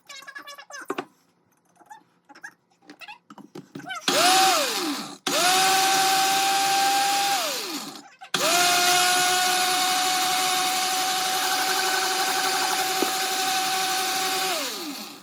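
Countertop blender running in three bursts, a short one, a longer one and one of about six seconds. Each time the motor spins up to a steady whine and winds down when switched off. It is blending cilantro with lime juice and olive oil into a sauce.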